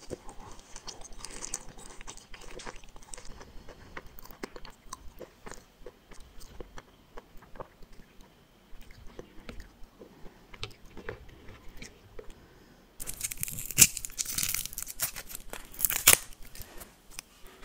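Close-miked chewing of soft gummy candy: small wet, squishy clicks. About two-thirds of the way in, a plastic candy wrapper crinkles loudly for a few seconds as a lollipop is unwrapped.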